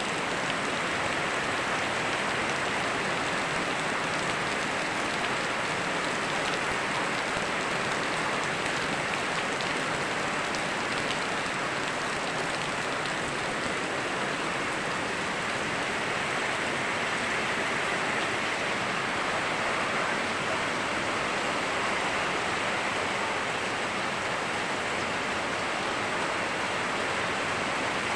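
Steady rain falling together with a flowing river: an even, unbroken hiss of water.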